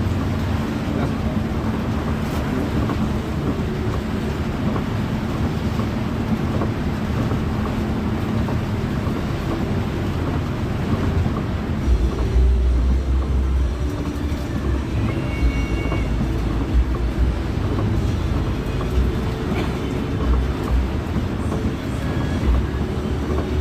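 Pelita Paradep intercity bus driving on the road, heard from inside the cabin: a steady drone of engine and road noise. The low rumble grows stronger about halfway through.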